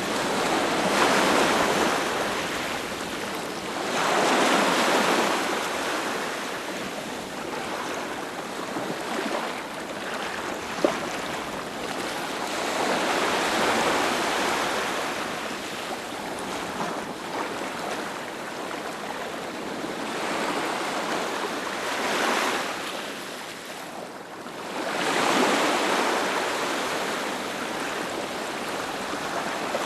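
Sea waves breaking on a beach: a steady wash of surf that swells and fades every few seconds, with the strongest surges about 1, 4, 13, 22 and 25 seconds in. A single sharp click about 11 seconds in.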